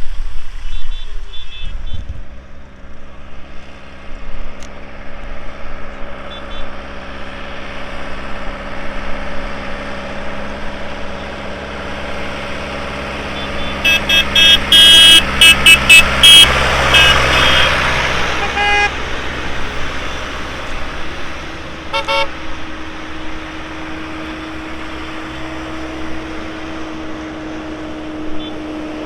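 Tractor engines running as tractors go by, with a quick series of short horn toots about halfway through, the loudest part, and a single short toot a few seconds later.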